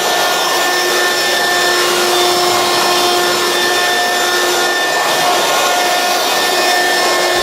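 Hoover Quik Broom Encore S2551 stick vacuum running steadily, a whooshing airflow with a steady motor whine.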